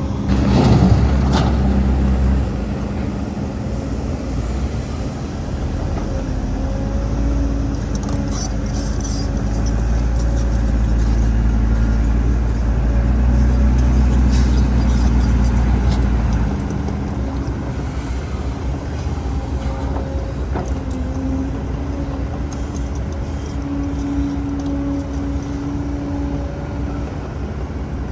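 Heavy diesel earthmoving machinery running steadily, its engine note rising and falling with load. It grows louder for several seconds in the middle and settles back, with a short loud burst near the start.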